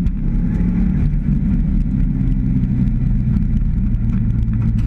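Mitsubishi Lancer Evolution VI's turbocharged four-cylinder engine running hard at speed, heard from inside the cabin. A brief dip in level at the very start, then the engine note holds steady.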